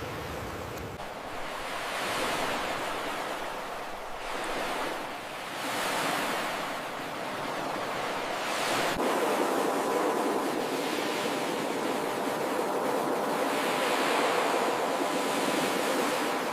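Ocean surf breaking and washing onto a beach, surging about 2, 6 and 9 seconds in, then a fuller, steadier wash.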